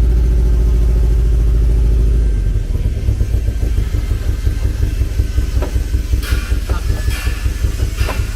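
Engine of a replica Porsche spider running: a steady drone for about two seconds, then a rhythmic, pulsing idle.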